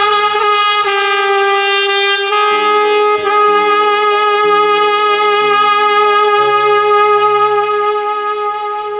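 Alto saxophone playing over a backing track: it moves to a new note about a second in and holds it as one long note while the accompaniment's bass line steps down beneath it, the whole easing off slightly near the end.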